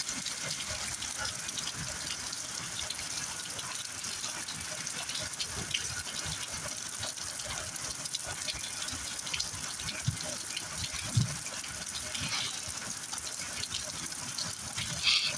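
Heavy rain falling steadily in a thunderstorm, as a constant rushing hiss, with a few short louder splashes or knocks of water.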